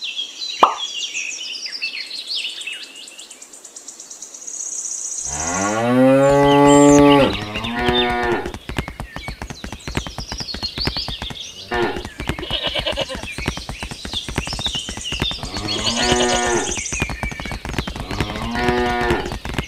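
Cows mooing, several times: a long call about five seconds in, then shorter ones, over a background of birds chirping.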